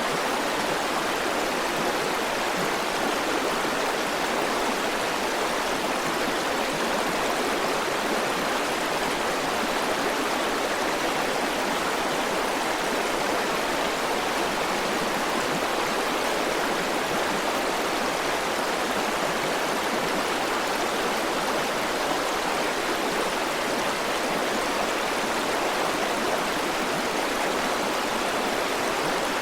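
A river flowing, a steady rushing of water with no changes.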